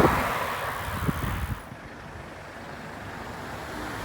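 Wind buffeting the microphone while riding, with a low rumble, dropping away sharply about a second and a half in to a quieter steady road noise.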